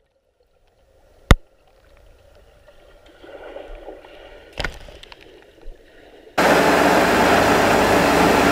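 A single sharp click, faint sloshing, then a loud steady rush of water noise that cuts in suddenly near the end.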